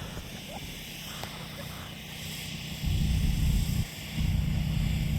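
A nearby engine running, coming in loud about three seconds in, dropping out for a moment and then running steadily again.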